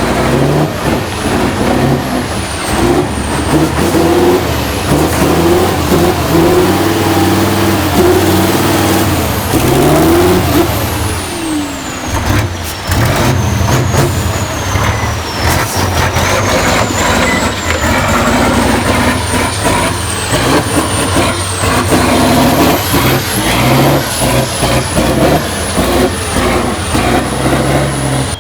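Tatra 815 6x6 truck's diesel engine revving up and down under load, with a thin high whistle wavering above it. About ten seconds in, the revs drop away before climbing again.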